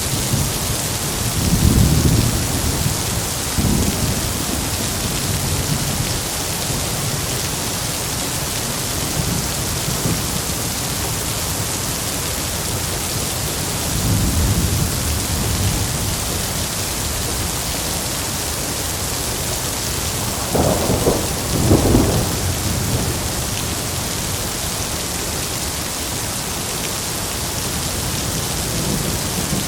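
Heavy steady rain with thunder: low rumbles a couple of seconds in, again shortly after, and about halfway, then two louder, sharper claps of thunder close together about two-thirds of the way through.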